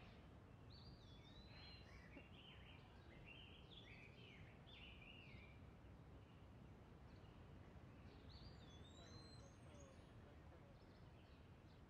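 Faint outdoor ambience: a steady low hiss with a small songbird singing quick, warbling chirps through the first half and again briefly past the middle.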